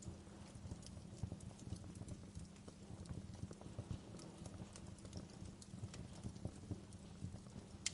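Fireplace fire crackling: a steady low rumble with many irregular small pops and snaps, and a sharper snap near the end.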